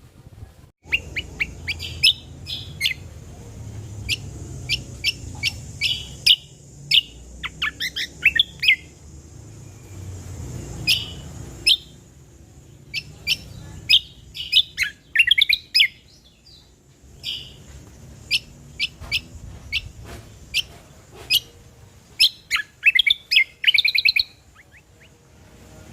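Cucak kombo singing: bursts of sharp, fast chirps and rattling trills with short pauses between them. A steady high hiss and a low rumble run underneath.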